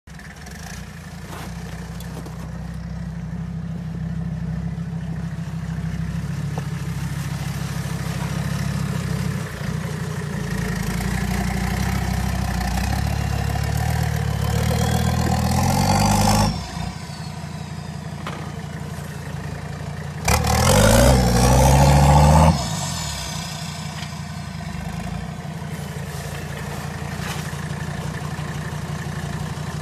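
Mercedes-Benz OM617 turbo-diesel inline five-cylinder idling. It is revved slowly up to a peak that drops back suddenly about halfway through, then revved sharply for about two seconds, settling back to idle each time.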